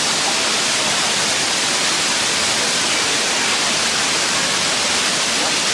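Waterfall running full after rain, a loud, steady rush of falling water.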